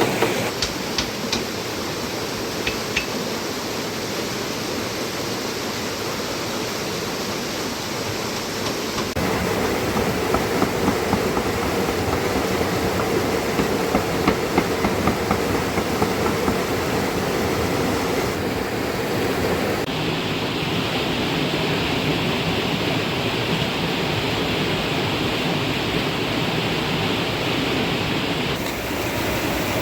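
Steady rushing water noise that shifts in tone at several cuts, with a few light knocks near the start and again around ten to fifteen seconds in.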